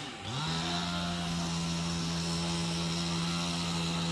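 A small engine revs up in the first half second, then runs steadily at high speed, holding one even pitch.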